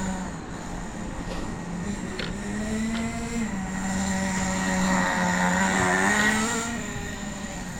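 Hot Bodies .18 two-stroke nitro engine in an RC car running. Its engine note rises and falls a couple of times with throttle and is loudest around two-thirds of the way through.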